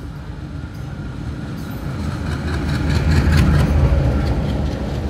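Diesel locomotive hauling a passenger train runs past close by. Its engine rumble swells to its loudest about three to four seconds in, with the clacking of wheels over the rails as the locomotive and coaches go by.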